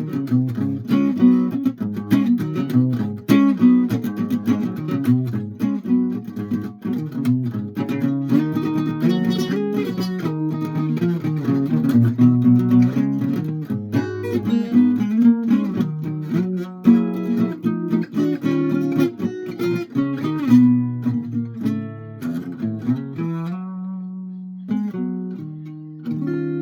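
Acoustic guitar played rapidly, a dense run of plucked and strummed notes that thins to a few slower notes near the end.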